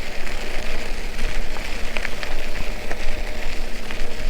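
Steady rushing, crackly noise from a camera mounted on the handlebars of a moving e-bike: wind buffeting the microphone with a deep rumble, and tyre noise from the driveway, with a few faint ticks.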